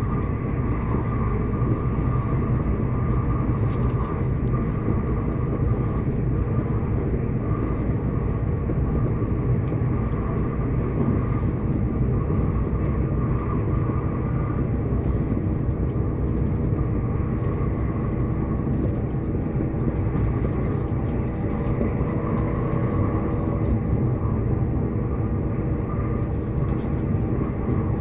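Train running: a steady low rumble with a few faint held tones above it.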